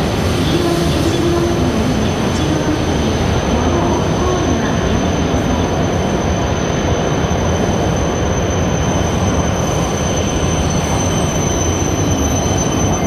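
W7 series Shinkansen train pulling out of the platform and running past close by, a steady, continuous rumble of wheels and running gear, with a thin high steady tone above it.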